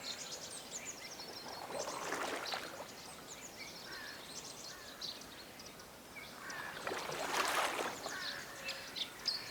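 Canoe paddle strokes in the water, two swishing splashes about five seconds apart, against a continual chatter of small birds chirping.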